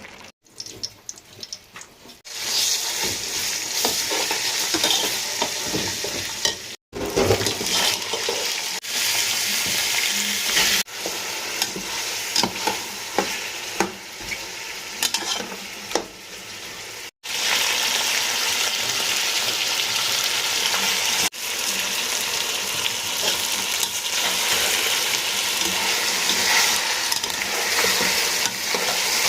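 Food sizzling as it fries in a pan, with stirring. It is quieter for the first two seconds, then the sizzling comes in loud; it breaks off abruptly several times and picks up again.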